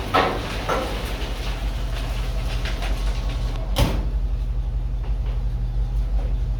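Old dump truck's engine running with a steady low hum, with rattling and one sharp click about four seconds in.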